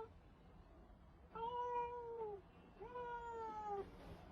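Domestic cat meowing twice, each meow about a second long and sliding down in pitch at the end.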